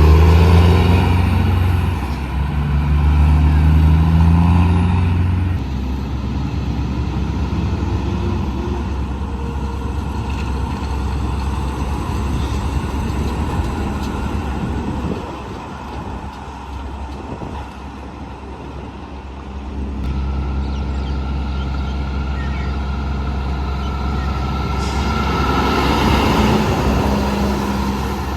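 Heavy diesel trucks driving past. An engine is loudest at the start and pulls up through its revs over the first few seconds, traffic goes quieter in the middle, and another truck's engine builds again near the end.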